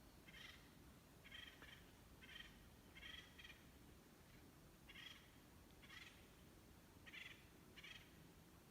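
Faint short bird calls repeating about once a second over the low hiss of a quiet forest.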